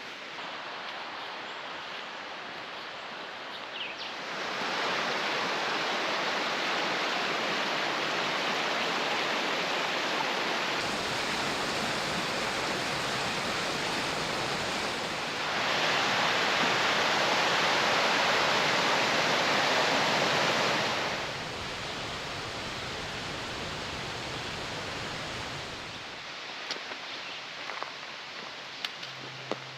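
Rushing water of a small mountain stream cascade, a steady hiss that jumps louder and softer several times. A few faint clicks come near the end.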